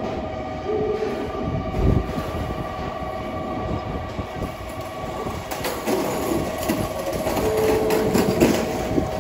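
JR Kyushu 811/813-series electric train pulling into a station platform, its running noise growing louder. Sharp wheel clatter over the rails comes from about halfway through, over a steady high hum.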